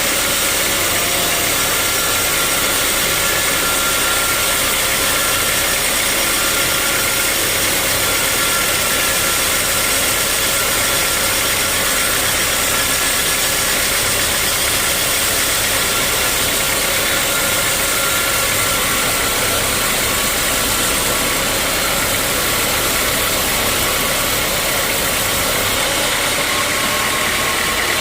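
Sawmill machinery running steadily with a loud, even mechanical noise and a faint steady whine.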